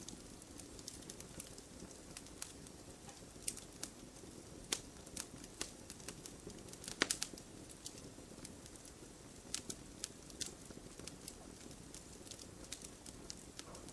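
Wood fire crackling: irregular sharp pops and snaps over a low steady rumble of burning, with a louder cluster of pops about halfway through.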